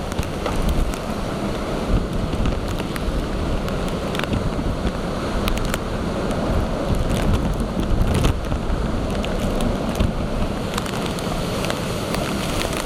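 Typhoon storm surf and gale-force wind: a dense, steady rush of breaking waves and wind, with wind buffeting the microphone and scattered sharp ticks of rain or spray.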